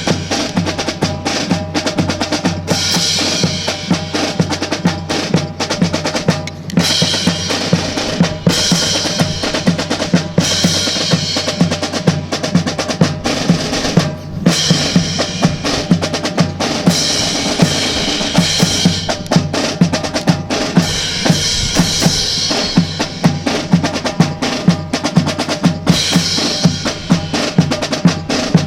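Marching drum cadence of snare and bass drum keeping an even, continuous beat.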